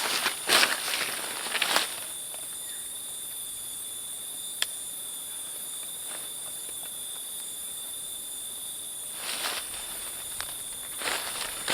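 Forest insects such as crickets singing in a steady high-pitched chorus. Rustling, crunching noises like footsteps or handling on dry leaves come over it in the first two seconds and again near the end, and there is one sharp click about four and a half seconds in.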